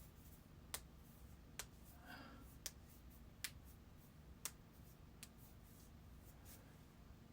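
Near silence: room tone broken by about half a dozen faint, sharp clicks, irregularly spaced roughly a second apart.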